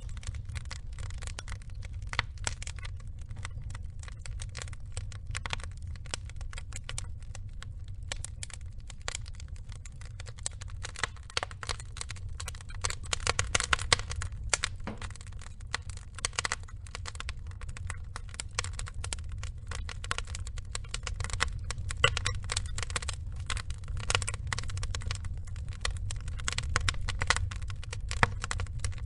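Log fire burning, the wood crackling in dense, rapid clicks over a low steady rumble, with a few louder pops.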